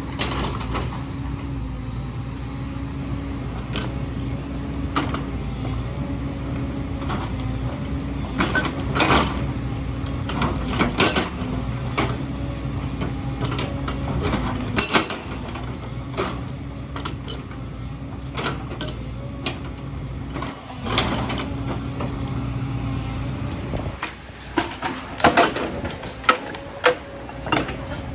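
Excavator's diesel engine running steadily under load, with sharp clanks and knocks from the working machine scattered through it. The engine drops lower a little before the end, and a quick run of louder knocks follows.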